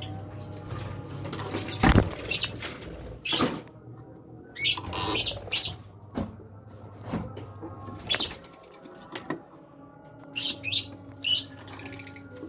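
Lovebirds giving shrill, rapid chattering squeaks in several short bursts, the longest about eight and eleven seconds in, among scattered knocks and clicks of the wooden nest box being handled.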